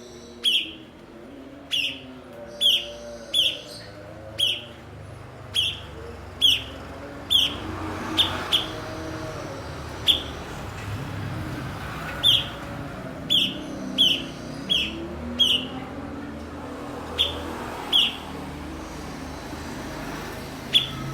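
A cucak cungkok giving short, sharp chirps that drop steeply in pitch, repeated about once a second with a few longer pauses, over a faint low background hum.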